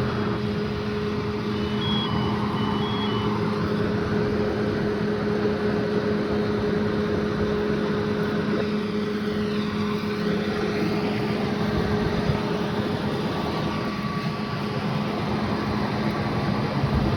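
Large truck engine, likely a fire engine at the scene, running steadily with a constant hum. A few short high beeps sound about two seconds in.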